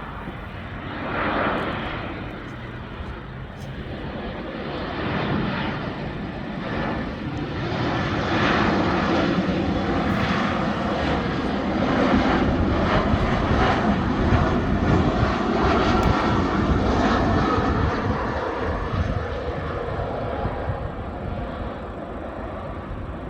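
Airliner engines roaring as a plane passes, growing steadily louder over the first dozen seconds, holding, then easing off a little near the end.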